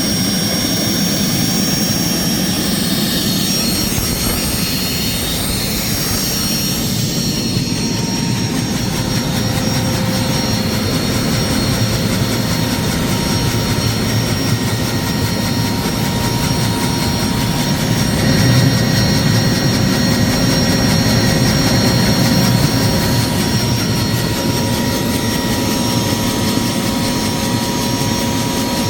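A homemade helicopter's GTD-350 turboshaft engine running on a ground test with its rotor turning: a steady high turbine whine over a dense low rotor and exhaust noise. It gets a little louder from about 18 seconds in.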